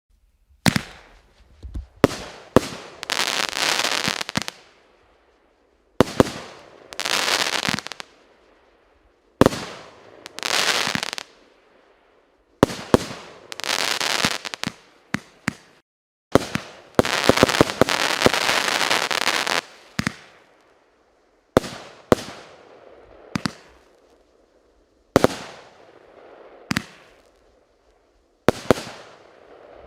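Varyag 88-shot, 1-inch fireworks cake firing. Sharp bangs come in groups about every three seconds, each followed by a second or two of dense crackling from the crackling willow and palm effects.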